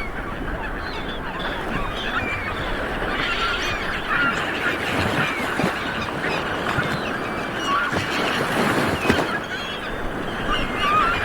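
Light waves washing on a beach, with a flock of birds calling over it: many short chirps and squeals all the way through.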